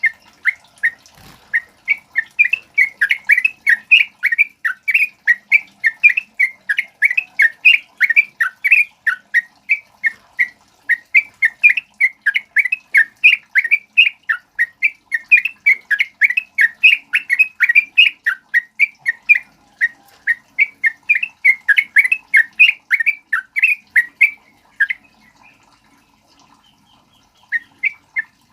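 Yellow-vented bulbul (trucukan) singing a fast, unbroken chatter of short bright notes, several a second. It falls silent for a couple of seconds near the end, then starts again.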